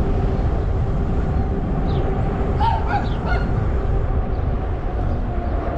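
Wind rushing over a helmet-mounted microphone and the rumble of fat tyres on pavement during an e-bike ride, with a steady faint hum underneath. A few short bird calls come through about halfway.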